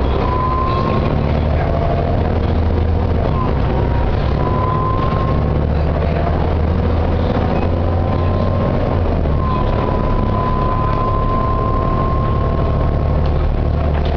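Volvo B7TL double-decker bus under way, its diesel engine rumbling, with a thin high whine over it that climbs slowly in pitch, breaks off and starts again several times. The whine is the bus's known noise, which the uploader puts down to the ZF or Voith gearbox and the cooling fan.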